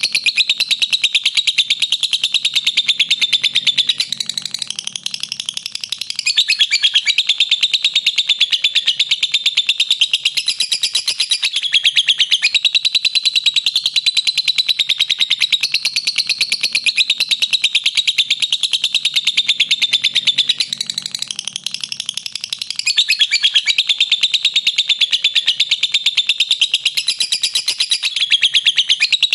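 Lovebird chattering in the long, fast, unbroken trill of high notes known as 'ngekek panjang'. The song eases off briefly twice and then resumes.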